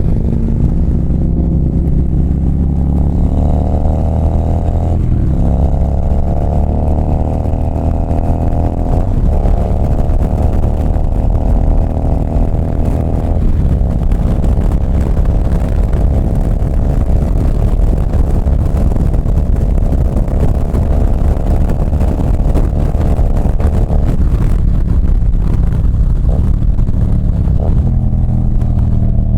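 2024 Harley-Davidson CVO ST's Milwaukee-Eight 121 V-twin running under way, with a heavy low rumble throughout. Its pitch climbs and drops at gear changes about 5, 9 and 13 seconds in, then it settles into steady cruising.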